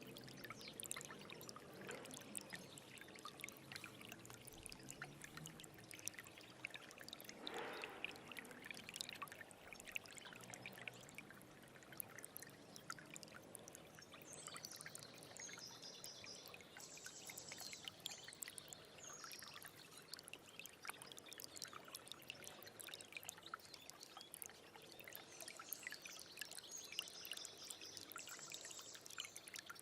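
Small stream trickling and gurgling, a faint steady babble of water full of little drips and splashes. A bird's high, fast trill comes twice, around the middle and near the end.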